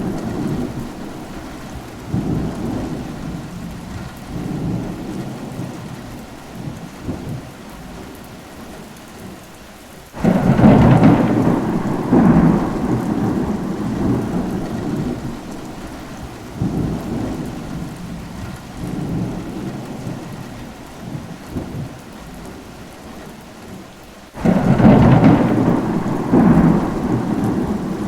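Steady rain with rolling thunder. A thunderclap breaks in suddenly about ten seconds in and another near the end, each rumbling away over several seconds.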